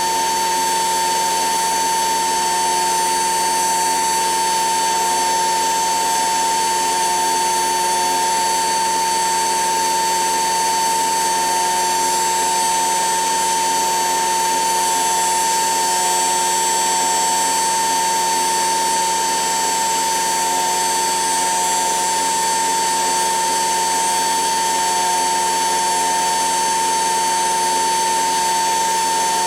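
Brushed 775 DC motor in a modified toy washing machine, spinning the drum through a pulley at steady high speed. It gives an unbroken high-pitched whine.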